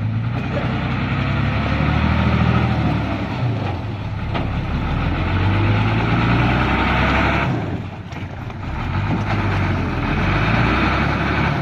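Modified six-wheel-drive Hino truck's diesel engine revving hard in three surges with brief drops between them, under load as it tries to pull out of deep mud.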